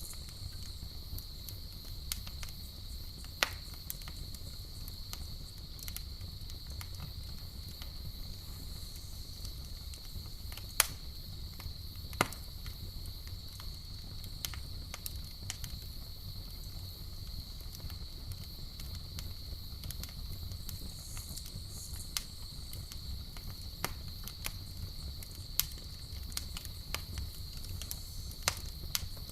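Campfire crackling, with scattered sharp pops from the burning wood, a few much louder than the rest, over a low steady rumble of the flames. A steady high cricket chirring runs underneath.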